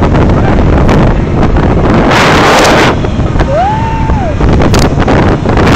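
Heavy wind buffeting the microphone over the low rumble of motorcycle engines. About two seconds in there is a louder rush of noise, and a second later a short tone that rises, holds and falls.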